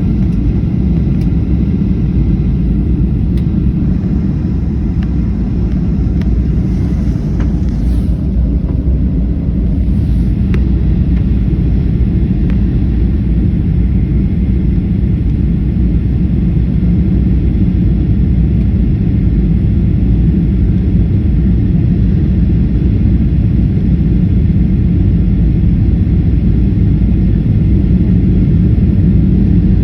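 Steady low rumble of a Ryanair jet airliner's engines and airflow on its approach to land, swelling slightly toward the end.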